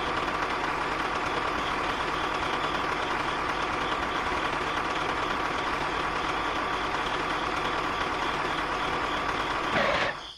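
A motor running steadily with a constant hum. Just before the end the pitch sweeps upward, then the sound cuts off suddenly.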